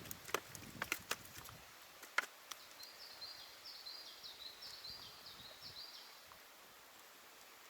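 A few sharp clicks and knocks in the first two seconds, then a small songbird singing a quick run of repeated high chirping notes for about three seconds.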